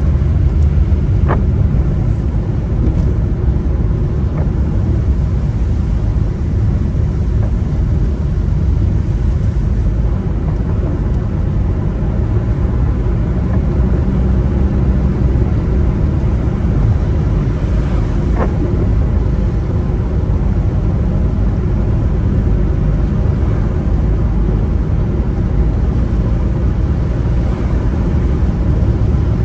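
A car driving on a wet road: a steady low rumble of engine and tyre noise, with a couple of faint ticks.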